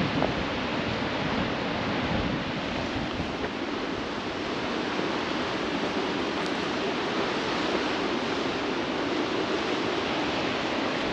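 Waterfall in heavy snowmelt flow, pouring as a steady, unbroken rush of water; it is raging.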